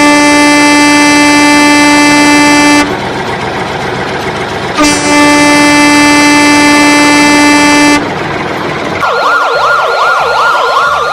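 A truck horn blown in two long steady blasts, each about three seconds, followed about nine seconds in by a siren warbling quickly up and down.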